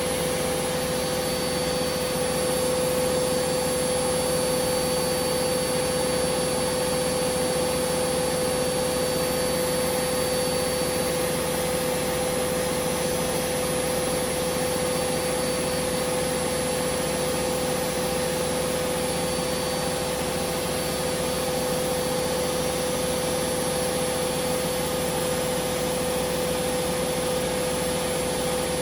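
Hoover Vision Dynamic washing machine spinning at high speed: a steady motor whine over the rush of the drum, unchanging throughout.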